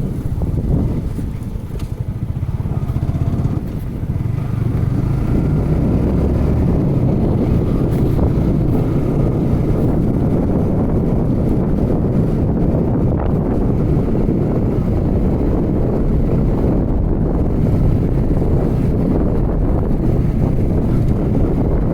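Yamaha R15 V3 motorcycle's 155 cc single-cylinder engine running while riding. The sound eases off for a few seconds near the start, then holds steady.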